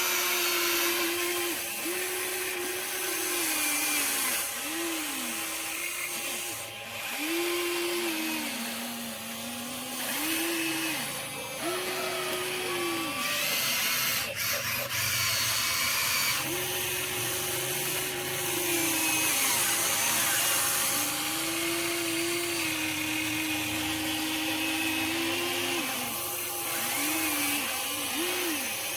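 Small electric gear motors of a Huina 1593 RC excavator whining as the model works, starting and stopping every second or two with the pitch rising and falling as each motor speeds up and slows under load.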